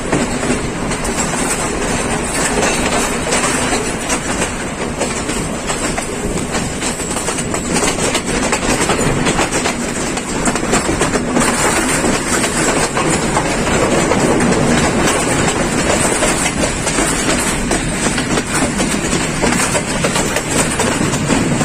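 Night Mail express passenger train running along the track: a steady rumble with the clickety-clack of wheels over the rail joints.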